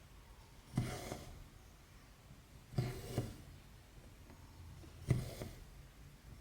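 Hand cross-stitching on 14-count fabric: the needle pokes through the cloth and the thread is drawn after it with a short rasp, about every two seconds, three strokes in all, the middle one doubled.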